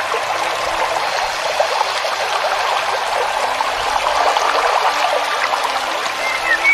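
A stream trickling and burbling steadily. Near the end come a few short bird chirps.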